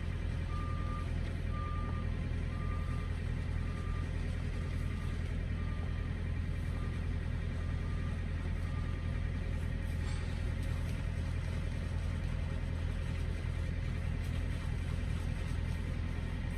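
Steady low rumble of an idling truck engine, with a reversing alarm beeping about once a second that grows fainter and dies away about halfway through.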